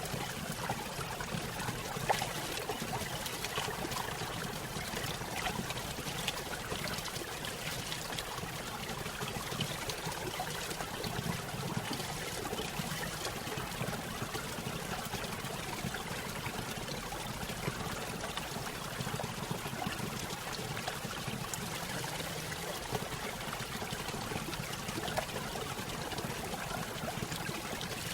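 Small stream tumbling over a low waterfall: water trickling and splashing steadily, with many small splashes.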